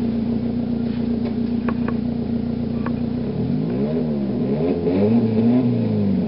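Car engine running at a steady pitch, then revved up and down twice from about halfway through.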